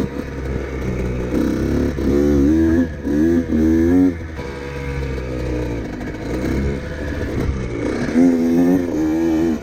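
Mini bike engine running and revving, the pitch rising and falling as it accelerates hard from about a second and a half in. It eases off after about four seconds and revs up again near the end.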